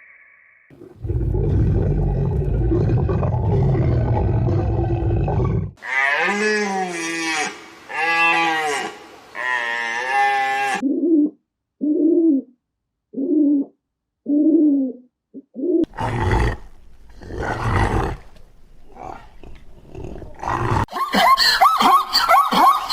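A run of different animal calls one after another: a low, rumbling roar, then three long wavering calls, a string of five short calls, a few rough bursts, and near the end many calls overlapping.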